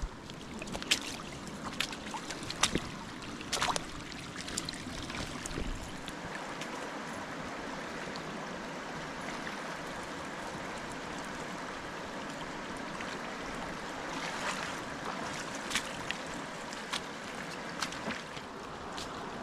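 Rain-fed creek water running steadily over gravel, in a creek bed that is usually dry. Scattered sharp clicks and taps sound over it, more of them in the first few seconds and again near the end.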